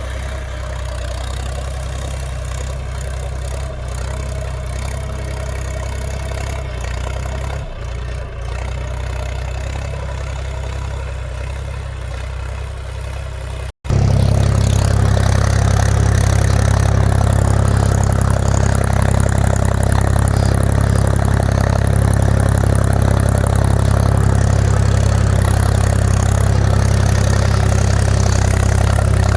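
Mahindra 275 DI TU XP Plus tractor's three-cylinder diesel engine idling steadily. Just before halfway there is a sudden cut, after which the engine is heard much louder.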